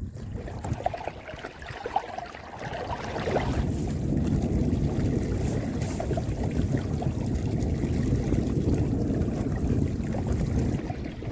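Wind buffeting the microphone over water rushing along the hull of a sailing canoe under way at about four and a half knots, with a few light ticks early on. The rush grows louder about three and a half seconds in.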